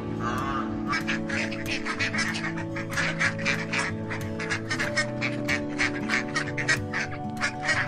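Mallard ducks quacking in a quick run of short calls, beginning about a second in, over background music with long held notes.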